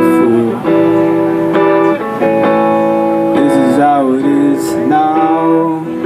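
Live song: strummed guitar chords, changing about once a second, with a voice sliding on a few sung notes.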